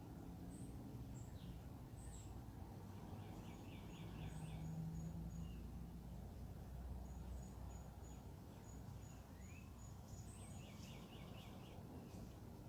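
Several small birds calling over a steady low background rumble: thin high chirps, runs of evenly spaced high peeps, a quick trill heard twice, and one rising note.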